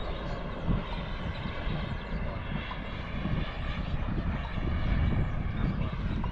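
Kerosene-fuelled turbine engine of a model L-39 Albatross jet whining steadily in flight, heard over a low uneven rumble.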